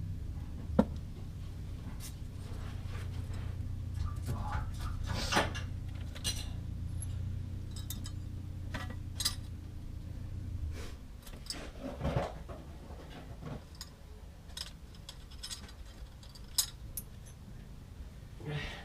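Metal tools and parts clinking and rattling now and then during hands-on repair work, over a steady low hum that cuts off about eleven seconds in.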